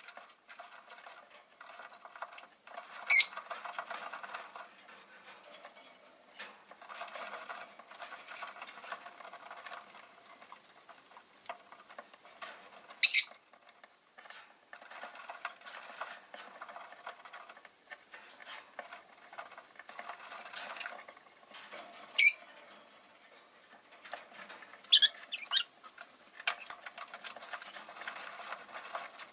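Rosy-faced lovebirds in their cage: near-continuous scratching, rustling and pecking, cut by about five short, sharp, high chirps, two of them close together late on.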